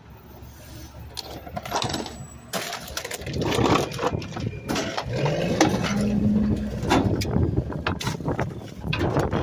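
Rear-loading garbage truck compacting trash. Bags and refuse crack and crunch under the packer blade, and about five seconds in the engine revs up to drive the hydraulics.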